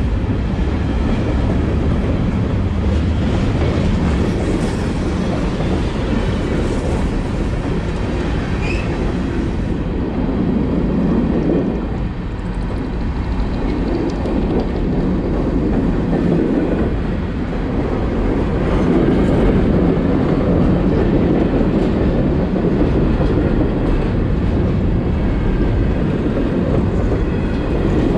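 Freight cars of a passing train rolling by close at hand: a steady, loud rumble of steel wheels on the rails.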